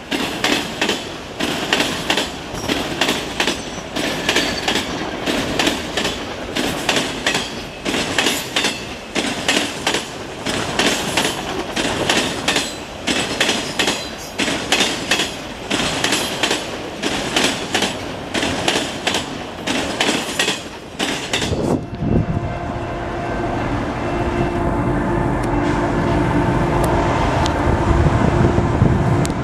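Railcar wheels clattering over a railway diamond crossing in a steady rapid rhythm of metallic bangs as a train rolls through. About three-quarters of the way in, the clatter cuts off abruptly and gives way to a steady humming drone and rumble of a train, growing louder.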